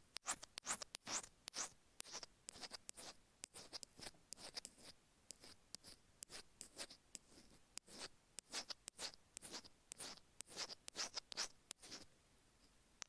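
Stainless steel ear pick scraping the grooved, rough surface of an iPhone earphone microphone: a quick run of short, gritty scratching strokes, several a second, thinning out near the end.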